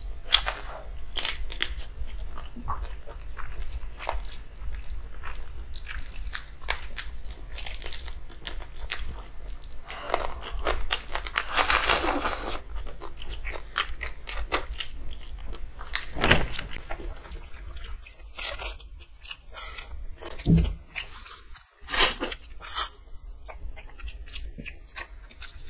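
Close-up eating sounds from two people chewing and biting instant noodles and fried chicken lollipop, with crisp crunches and many short wet mouth clicks and smacks. There is a longer noisy stretch about halfway through.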